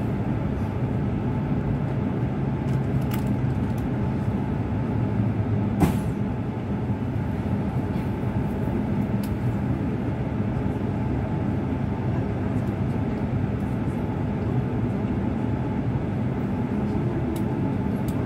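Inside an E6-series Komachi Shinkansen carriage rolling slowly along the platform as the train pulls into a station: a steady rumble and hum, with a single sharp click about six seconds in.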